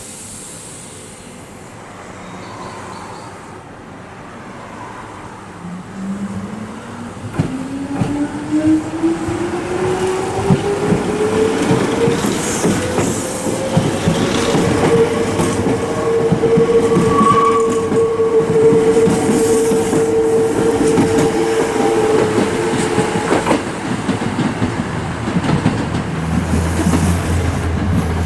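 A Nose Electric Railway 5100 series electric train pulling away. Its motor whine rises steadily in pitch, then holds at a steady pitch for several seconds before fading, over wheel rumble and the click of rail joints. The sound grows louder from about six seconds in.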